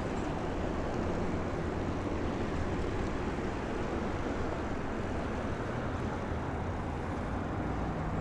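Steady wind rush and road noise on a clip-on lapel mic while riding a bicycle.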